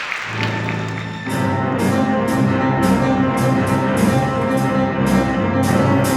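Applause dies away as live classical concert music begins with low held notes. About a second in, loud, rhythmic, repeatedly struck chords come in over a full sustained texture.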